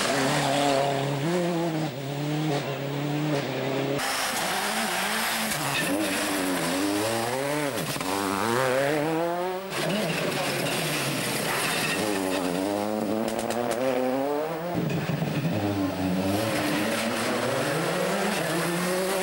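World Rally Cars' turbocharged four-cylinder engines at speed on a rally stage, the note climbing and dropping through gear changes and sweeping down as each car passes by; several short clips cut together.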